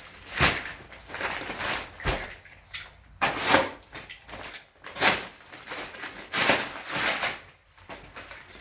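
Dry sand-and-cement shower pan mix being scooped and poured into a mixing tub: a series of short gritty scrapes and rustles, with a dull thump about two seconds in.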